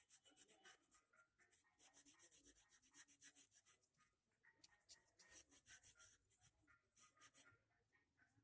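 Faint, rapid scratching strokes of a kolam being drawn by hand, coming in short runs separated by brief pauses.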